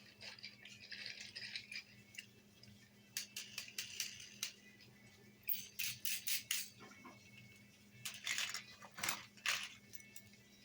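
Plastic toy construction vehicles being handled and shuffled around in a box: bursts of clicks, taps and rattles in three or four clusters, with a faint steady hum underneath.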